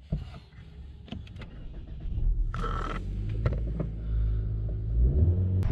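A 2024 Mitsubishi Eclipse Cross's 1.5-litre turbocharged four-cylinder is started with the push button. There are a few clicks, then a brief crank of the starter about two and a half seconds in, and the engine settles into a steady idle that grows a little louder near the end.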